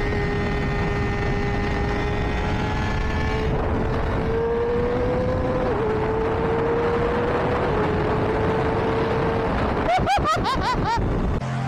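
Honda CBR600RR's inline-four engine at high revs through a loud aftermarket exhaust. The pitch climbs slowly with two brief dips, then several quick revs up and down near the end.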